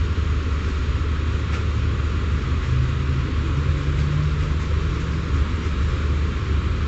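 V-set electric intercity train running, heard from inside the carriage: a steady low rumble and hum, with a low tone that steps up in pitch about three seconds in and fades out a couple of seconds later.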